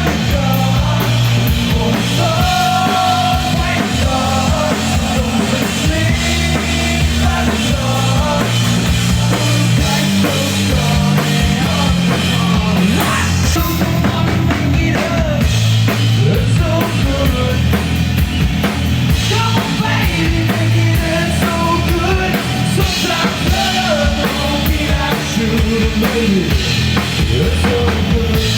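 Live rock'n'roll band playing loudly: drum kit with kick and snare driving under bass and electric guitar.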